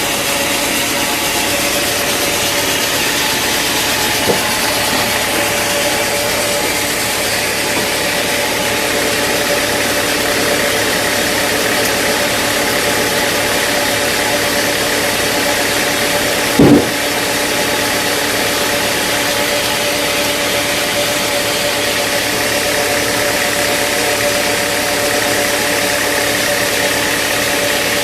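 Sawmill machinery running steadily with an engine-like hum, with a small click about four seconds in and a short, loud knock a little past halfway.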